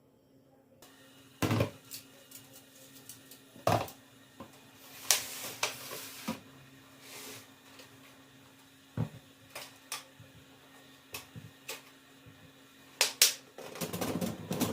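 Kitchen handling sounds: scattered knocks and clinks of dishes and utensils being set down and moved, with a short stretch of rushing noise near the end.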